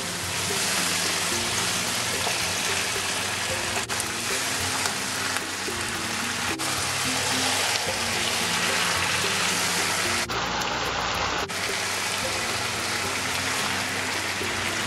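Perch and sunfish with drumstick pods, green mango and tomato frying in a hot oiled wok, giving a steady sizzle, under background music with sustained notes.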